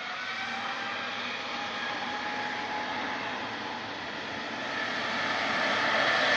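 Jet airliner's engines running as it approaches: a broad rushing noise with several high whining tones, growing louder toward the end.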